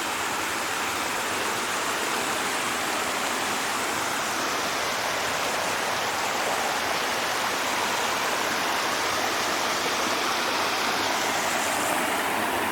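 Steady rush of water from a small waterfall spilling down a long cascade on a creek.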